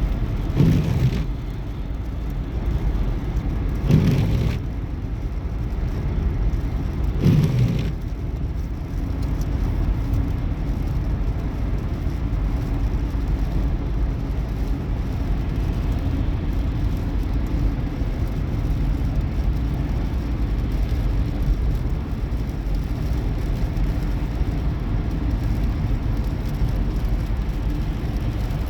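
Steady road and engine noise of a car travelling at highway speed, with three brief louder swells in the first eight seconds.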